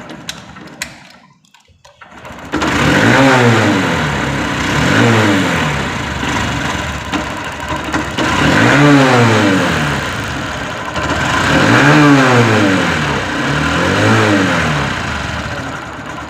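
Honda Shine single-cylinder motorcycle engine starting on a freshly fitted spark plug, replacing one with a broken electrode. It catches about two and a half seconds in, after a few clicks, and is then revved in five rising-and-falling throttle blips, running properly.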